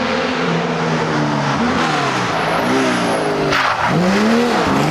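Historic rally car's engine revving hard, its pitch climbing and dropping several times as it changes gear through the stage, with a short sharp burst of noise about three and a half seconds in.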